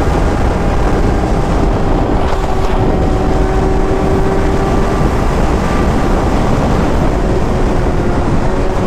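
Heavy wind buffeting on the microphone over a sportbike engine running at a steady cruising speed.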